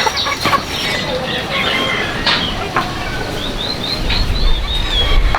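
Birds chirping in short, quick calls about three to four seconds in, over scattered knocks and clatter, with a low rumble coming in near the end.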